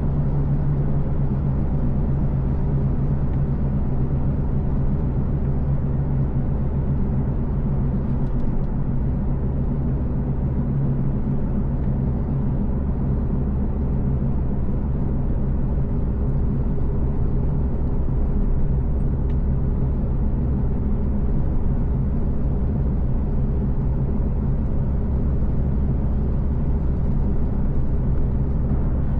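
Car on the move, a steady low rumble of engine and tyre noise at an even cruising pace.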